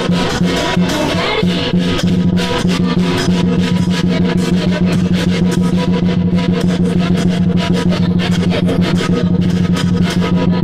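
Loud lion dance percussion: a drum and rapid, dense cymbal-like strikes in a fast, continuous rhythm.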